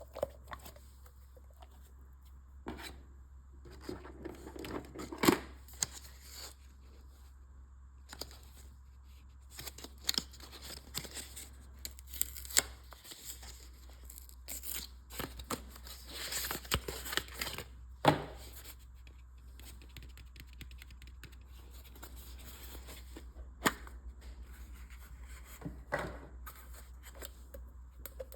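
Mystery toy packaging being torn open and crinkled by hand: irregular tearing and rustling with scattered sharp clicks and taps, over a steady low hum.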